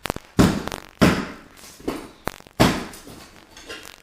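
Sharp, irregular knocks and cracks, about half a dozen, as a floor threshold is pried and pulled up off the floor.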